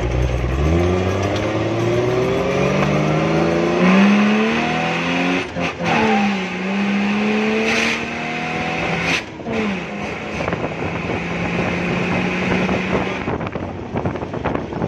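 Car engine pulling away and accelerating. The revs climb and drop back twice, about five and nine seconds in, as the gears change, then hold steady as the car cruises, with road and wind noise.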